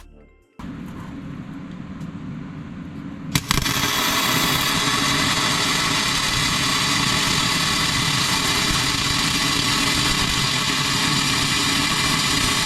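Electric arc welding on steel: the arc strikes about three and a half seconds in and runs with a steady crackling hiss for about ten seconds, then stops.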